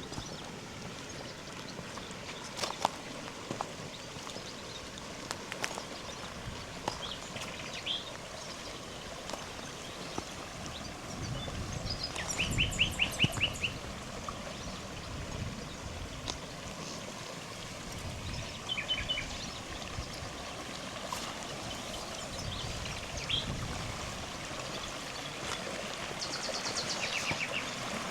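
A river's water running with a steady rush, while small birds sing. Rapid trills come about twelve seconds in, again near twenty seconds and near the end, with scattered clicks and low thumps between them.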